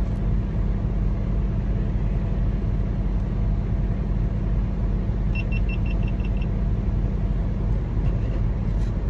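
Semi truck running down the road: a steady low rumble of engine and road noise. A little past halfway there is a quick run of about eight short, high beeps, roughly eight a second.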